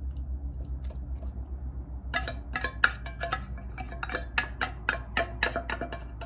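A utensil clinking rapidly and repeatedly against a dish, as in stirring or mixing, starting about two seconds in, over a low steady hum.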